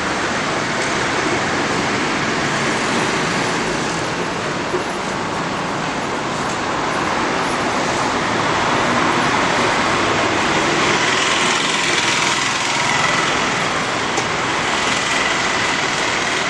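Steady roadside traffic noise, a continuous wash of passing vehicles.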